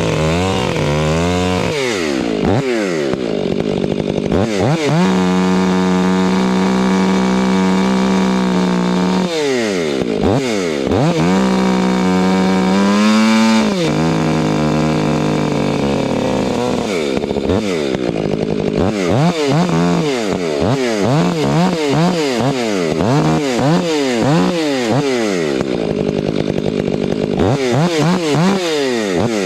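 Two-stroke chainsaw running at full throttle in two long steady stretches. In the second half it is revved up and down rapidly over and over.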